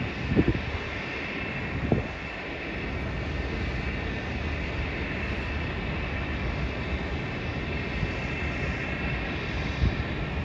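Jet aircraft engines running steadily at the airport, a continuous rumble with a faint high whine. A couple of brief low knocks in the first two seconds.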